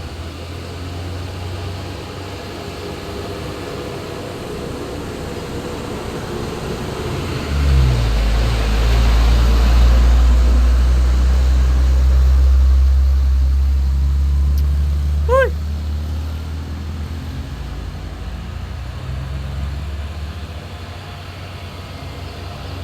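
Heavily loaded diesel truck crawling slowly uphill, its engine labouring with a deep, low rumble that swells sharply about a third of the way in, holds, and eases off past the middle. A brief high chirp comes through once just after the loudest part.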